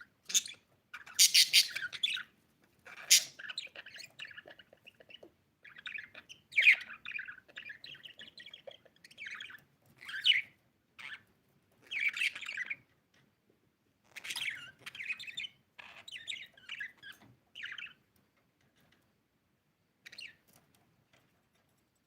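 Budgie (budgerigar) chirping and warbling in bursts of quick chirps and squawks, loudest in the first few seconds, then thinning out with short pauses until one last brief chirp near the end.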